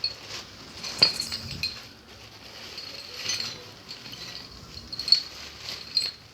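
Metal engine parts and tools clinking and tapping against each other during work on a Honda Dio scooter engine's crank assembly. There are irregular sharp metallic clinks, the loudest about a second in.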